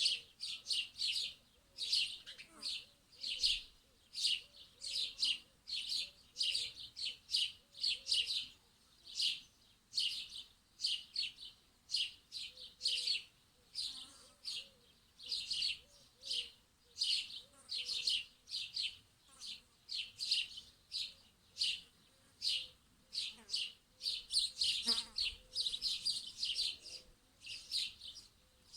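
Small birds chirping continuously in quick runs of short, high notes, several a second.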